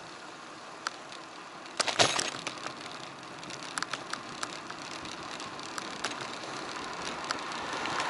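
Riding a bicycle on a road: steady wind and tyre noise on an action camera, with a burst of clattering rattles about two seconds in and scattered single clicks after, the noise swelling near the end.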